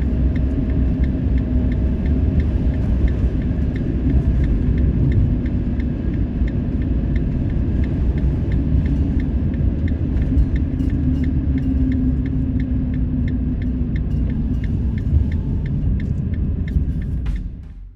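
A moving vehicle, most likely the van, giving a steady low rumble of engine and road noise with a light regular ticking about three times a second; the rumble fades away near the end.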